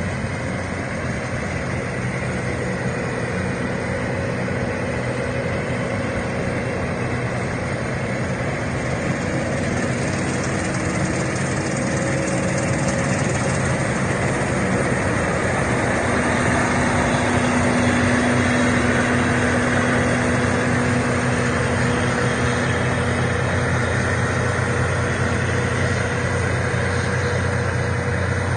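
Gleaner M3 combine running steadily while harvesting wheat: a constant engine drone with the rushing noise of the threshing machinery over it, swelling slightly about halfway through.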